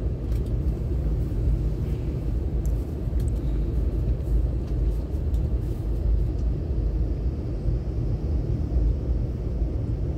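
Steady low rumble inside the cabin of a CRH high-speed train rolling slowly along a station platform, with a few faint clicks.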